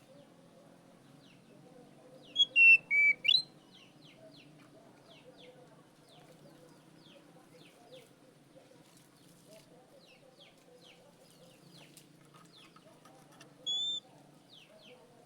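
Oriental magpie-robin (kacer) whistling: a quick run of four loud clear notes about two seconds in, first falling then rising, and a single whistle near the end. Faint short chirps and a low steady hum run underneath.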